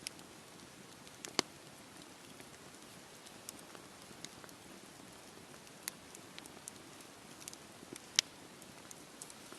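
Wood fire burning in a fireplace: a steady low hiss with scattered, irregular crackles and pops, the sharpest about a second and a half in and about eight seconds in.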